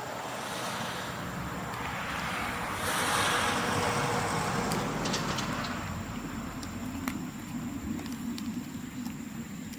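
Bamboo bonfire burning, with scattered sharp crackles and pops over a steady rushing noise that swells and then fades between about two and six seconds in.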